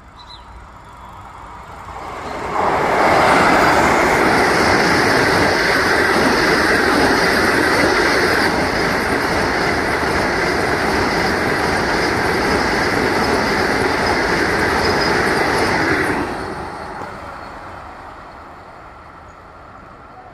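Vande Bharat Express electric train set passing at speed: a rushing rumble and hiss that swells quickly a couple of seconds in, holds steady for about thirteen seconds, then fades away.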